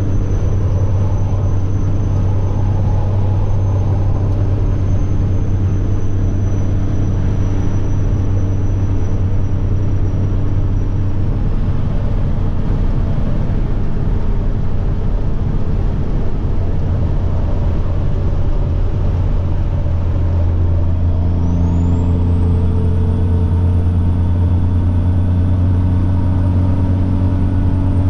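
Semi truck's diesel engine droning steadily under a high turbocharger whine. The whine fades out a little under halfway through. About two-thirds of the way in, a new whine rises sharply as the turbo spools up, and the engine's tone changes with it. The whine then holds high, easing slightly near the end.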